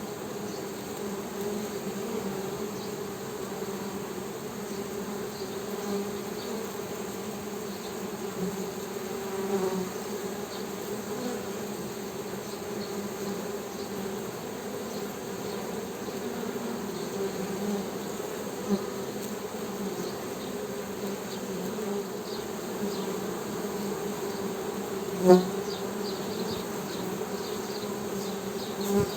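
Honey bees humming: a steady buzzing drone, with one brief, louder buzz about 25 seconds in.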